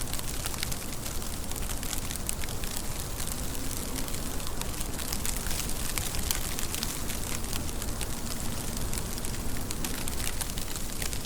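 Steady rain, with a constant hiss and many individual drops ticking sharply throughout.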